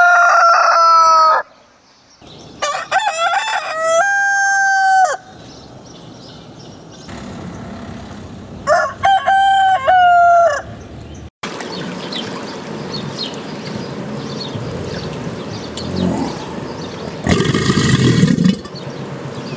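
Rooster crowing three times, each crow a long held call that drops in pitch at the end. About two thirds of the way through it cuts off abruptly, giving way to a steady noisy background with a louder burst near the end.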